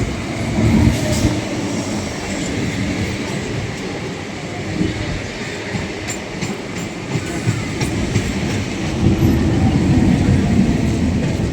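Electric multiple-unit local train running through a station: a steady rumble of wheels on rail with a few faint clicks, growing louder near the end.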